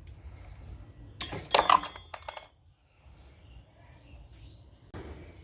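Metal clinking and rattling about a second in, lasting about a second, as small steel engine parts and tools are handled, with a faint knock near the end.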